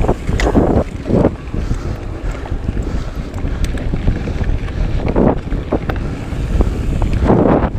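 Wind buffeting the microphone of a camera carried on a moving mountain bike, with scattered short knocks and rattles from the bike riding over rough trail.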